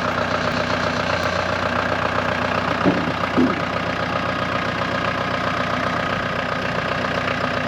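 An engine running steadily at idle, just after being started.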